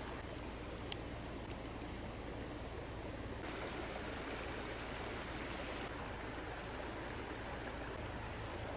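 Steady rushing outdoor noise whose colour shifts abruptly a couple of times, with one sharp click about a second in.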